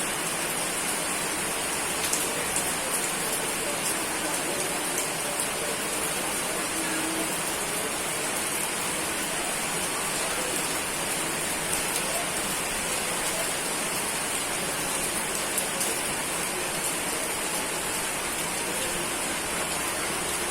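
Steady rain falling, an even hiss of rain on surfaces with many fine drop ticks, no thunder.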